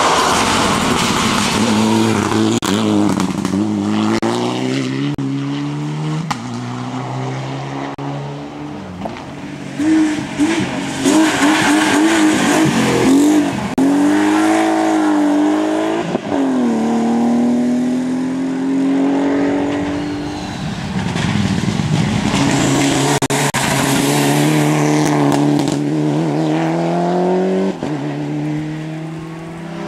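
Rally car engines revving hard at racing speed, the pitch climbing and dropping over and over with gear changes and throttle lifts, with tyre noise underneath.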